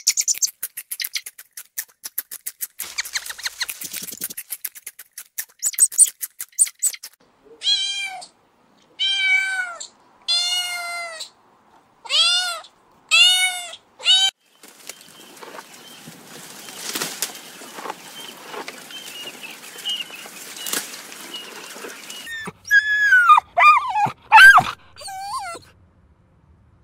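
Cat meowing: a string of about six drawn-out meows, each rising and falling in pitch, with a fast run of clicking sounds before them and more wavering cries near the end.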